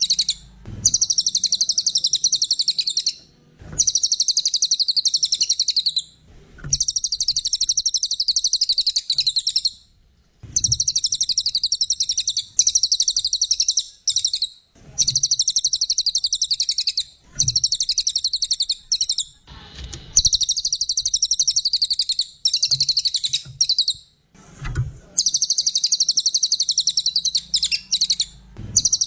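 Cililin (pygmy tit) singing in repeated phrases of very fast, high-pitched chattering trills, each a couple of seconds long with short breaks between them.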